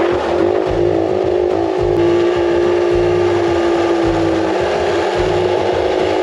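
Dirt bike engine running at a steady pitch while riding at speed.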